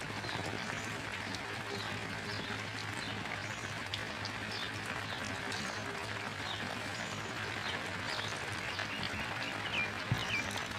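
Steady rain falling, with short high bird chirps scattered over it, coming more often near the end.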